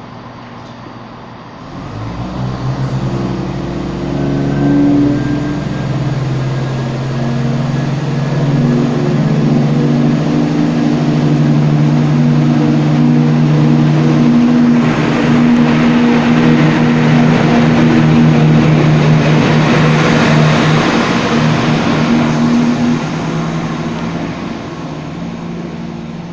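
Diesel train running loud and steady. The engine note comes in about two seconds in, a rushing rumble builds through the middle, and the sound eases off near the end.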